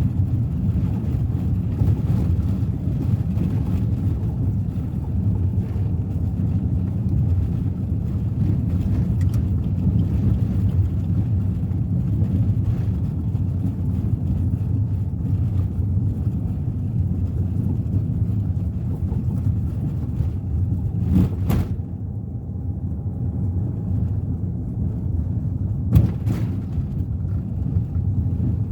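Suzuki Ertiga 1.4 manual running along the road, a steady low rumble of engine and tyre noise heard from inside the cabin. Two brief knocks come near the end, about five seconds apart.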